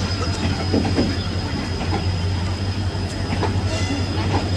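Passenger train rolling past: a steady low hum with irregular clicking and clacking of wheels over the rail joints.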